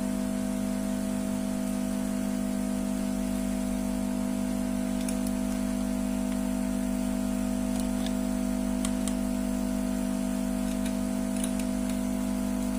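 Steady machine hum: a strong low drone with a steadier higher tone above it, unchanging throughout, with a few faint light clicks now and then.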